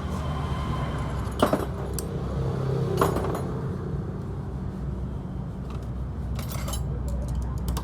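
Small metal parts clinking and clattering, three times, over a steady low hum.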